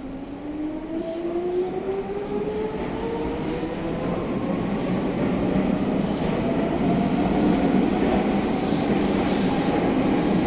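Meitetsu 6800 series electric train pulling away: its motor whine climbs steadily in pitch as it gathers speed, over the rumble of wheels on rail, growing louder throughout.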